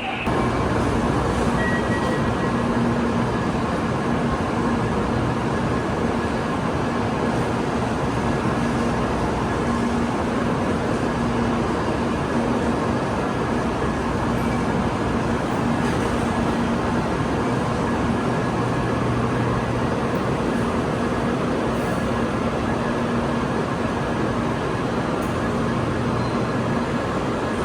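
Train running, a steady, even rumble with a faint constant hum.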